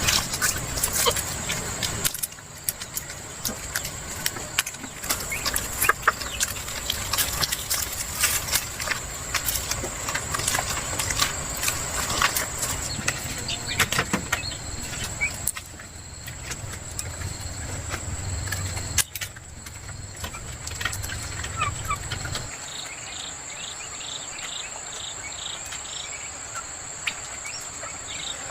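Chickens clucking over a steady high-pitched insect drone, with many small clicks and knocks. A low rumble stops about 22 seconds in, leaving the insect chirping.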